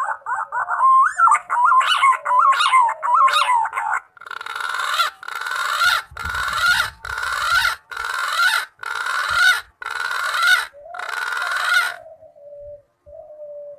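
Green pigeon (punai) calling: a few whistled, gliding notes, then a run of eight harsh, rasping calls at about one a second that stop about twelve seconds in.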